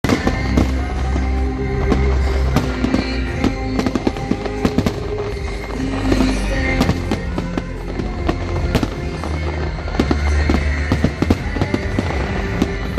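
Fireworks bursting in rapid succession, many sharp bangs and crackles, over music with held bass notes.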